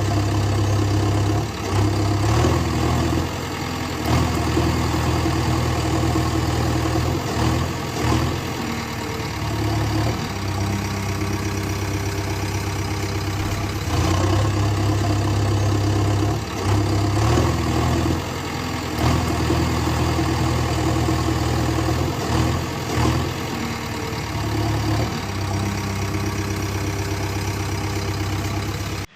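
Heavy engine running at idle, its revs stepping up and down every few seconds. It starts and stops abruptly.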